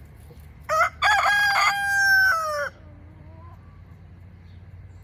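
A rooster crows once, loud and close: a short opening note, then a long held note that drops in pitch as it ends.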